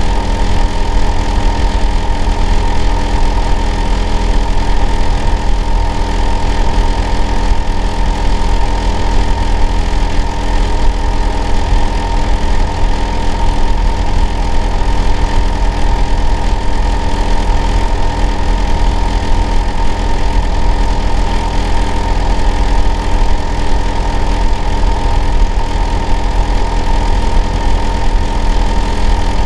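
Hitachi air-conditioner outdoor unit running steadily: a deep hum with several constant tones over it, the clearest a high hum near 1 kHz. It is a loud noise that the household next door calls abnormal.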